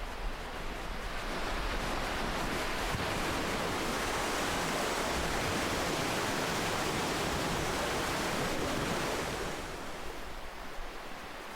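Ocean waves: the hiss of surf swells over the first couple of seconds, holds for several seconds as a wave washes in, then falls away about nine and a half seconds in.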